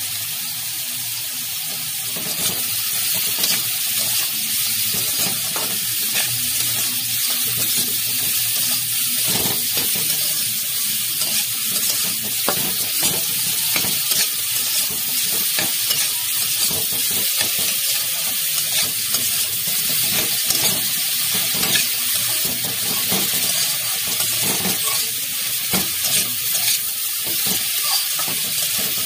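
Chopped cauliflower filling sizzling in hot oil in a kadai while a spatula stirs it, scraping and clicking against the pan. The stirring gets louder about two seconds in.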